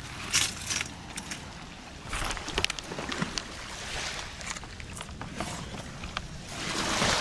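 Sea waves washing onto a beach, swelling and ebbing, with the biggest wash near the end, and scattered sharp clicks and taps over it.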